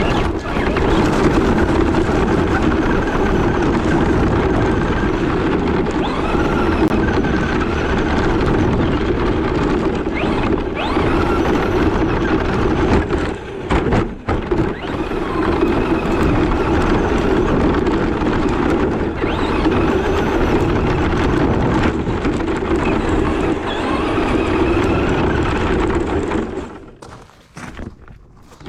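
Steady, loud vehicle running noise that eases briefly about halfway through and falls away near the end.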